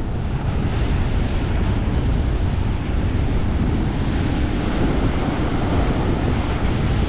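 Surf crashing, with wind buffeting the microphone: a steady rush of noise with a heavy low rumble.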